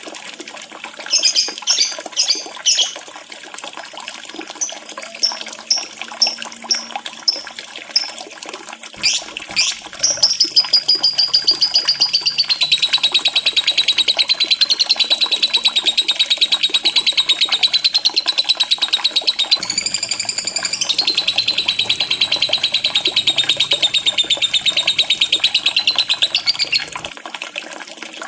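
Lovebird giving short high chirps, then from about ten seconds in a long, fast, unbroken chattering trill lasting some seventeen seconds, over a steady sound of running water.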